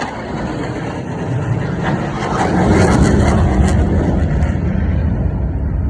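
Blue Angels jet aircraft flying past; the engine noise swells about two seconds in and stays loud and deep.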